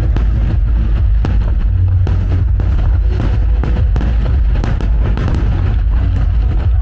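Fireworks exploding in rapid succession, many sharp bangs and crackles over a heavy low rumble, with music playing along.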